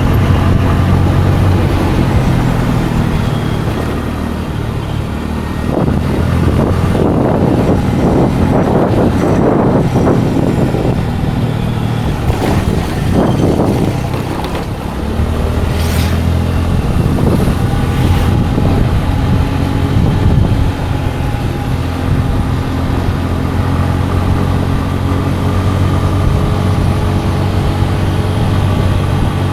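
Scooter engine running steadily with a low, even hum, mixed with road and wind rush that grows louder for several seconds in the middle. A brief sharp click about halfway through.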